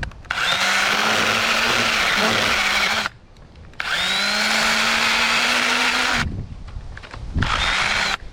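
Battery-powered Echo pruning saw cutting into a tree trunk in three runs: two of about three seconds and a short one near the end. The motor's steady whine runs over the rasp of the chain in the wood.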